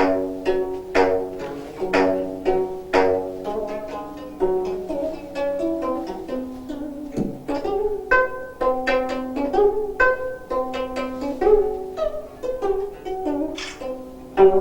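Solo gayageum, the Korean plucked zither, played by a child: strong single plucked notes about once a second at first, then quicker, denser runs of notes from about four seconds in. The piece is in the fast hwimori rhythm.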